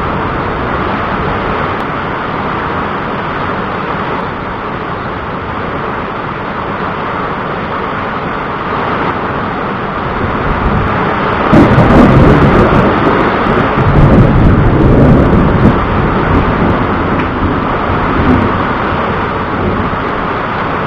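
Thunderstorm: steady rain hiss, with a long roll of thunder swelling up about halfway through and rumbling on for several seconds before easing off.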